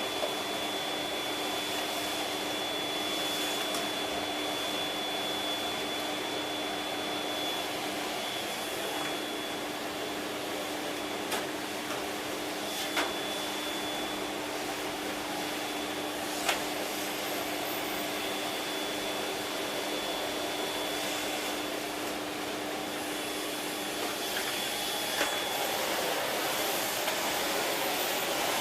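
Siemens Z6.0 Power 2500 W bagged cylinder vacuum cleaner running steadily while vacuuming the floor, with a constant hum and a thin high whine. A few sharp clicks are heard partway through.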